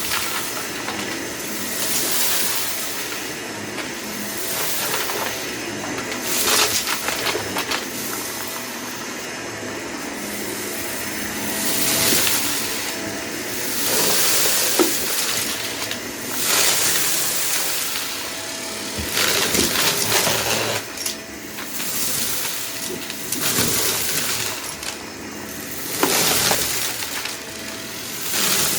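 Vacuum cleaner running and sucking up scattered debris, which rattles and crackles through the nozzle; the suction noise swells every few seconds as the head passes over the mess.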